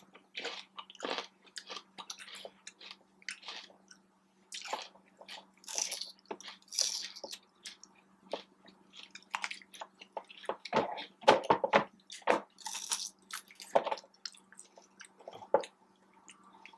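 Close-miked chewing and mouth sounds of people eating boneless chicken wings: irregular short smacks and clicks, with a louder cluster about two-thirds of the way in.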